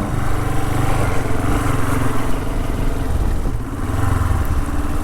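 Honda CL450 parallel-twin engine running as the motorcycle is ridden along a dirt trail, the revs dipping briefly about three and a half seconds in, then picking up again.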